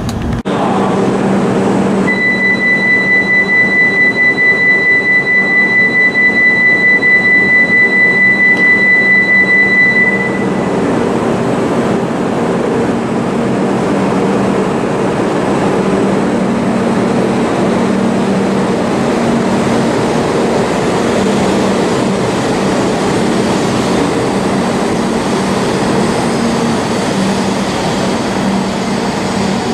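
Steady rumble and hum of an E5 series Shinkansen train. For about eight seconds a single high electronic tone, pulsing about twice a second, sounds over it, then stops.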